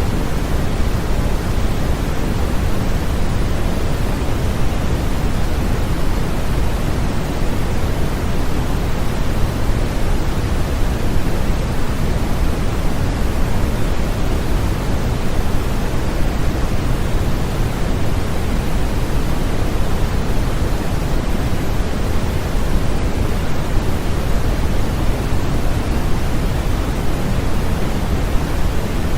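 Continuous generated sleep-aid noise: a steady, even hiss with no pitch or rhythm, heavier in the low end than the high, like pink noise.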